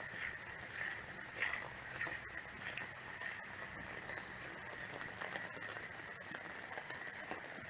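Heavy rain falling steadily, with many individual drops tapping and splashing close to the microphone.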